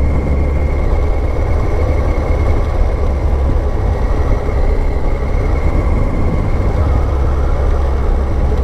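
A Kawasaki ZZR1400 motorcycle being ridden: steady wind rush and engine noise at the rider's helmet, a dense low rumble that holds even throughout.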